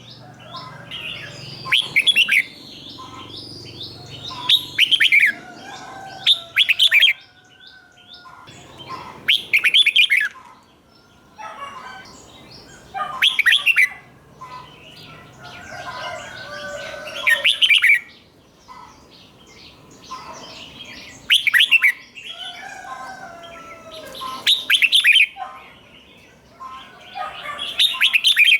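Red-whiskered bulbul singing: loud, clear song phrases every three to four seconds, many given as a quick doubled burst, with softer chattering notes in between.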